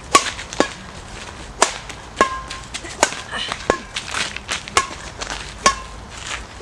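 Strung badminton racket being struck again and again. Each hit is a sharp ping followed by a short ring from the strings, about one to two hits a second at an uneven pace.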